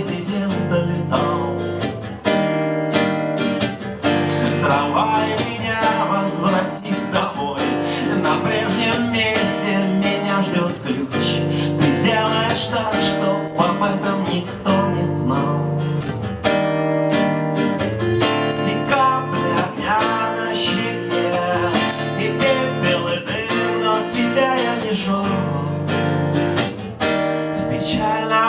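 Acoustic guitar strumming chords in a steady rhythm: music from a song.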